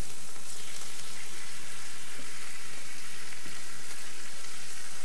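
Steady sizzling and crackling of food cooking on the stovetop, with a saucepan of water at the boil.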